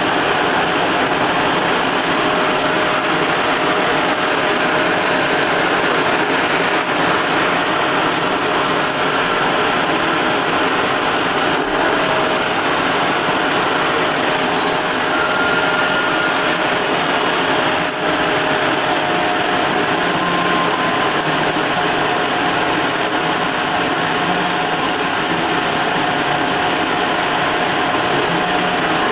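Kress router spindle on a homebuilt CNC mill running at 20,000 rpm, its 2 mm two-flute end mill slowly cutting 3 mm aluminium without coolant. The sound is a loud, steady whine and hiss with a few faint steady tones over it.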